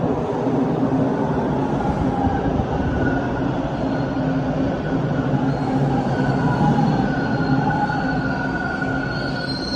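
TTC subway train moving through the station: a steady rumble with wavering motor tones. High-pitched wheel squeal starts up near the end.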